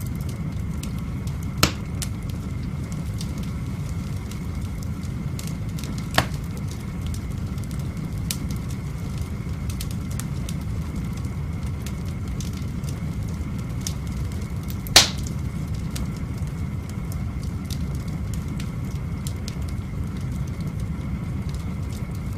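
Firewood burning in an open fireplace: a steady low rush of the fire with light crackling ticks and three sharp pops, the loudest about two thirds of the way through.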